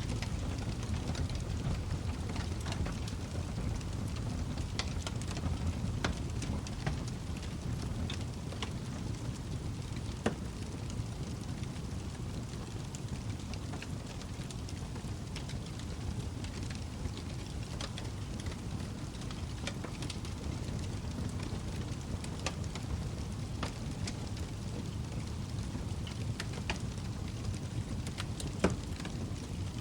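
Log fire burning in a fireplace: a steady low rumble of flames with scattered sharp crackles and pops, two of them louder, about ten seconds in and near the end.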